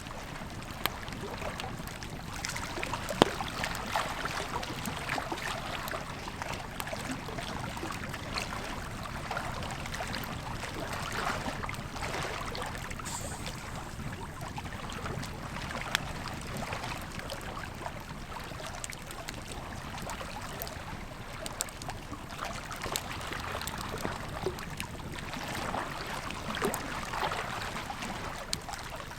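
Campfire crackling, with scattered sharp pops over the steady rushing of a river.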